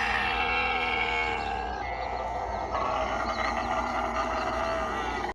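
Animals calling, several overlapping pitched cries at once that stop abruptly.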